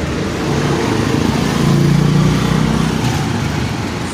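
A motor vehicle engine running, swelling louder about halfway through and then easing off.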